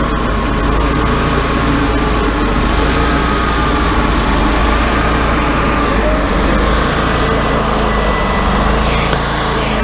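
Wood-Mizer LT40 hydraulic bandsaw mill running steadily under load, its band blade sawing through a log with a slightly wavering whine over the engine.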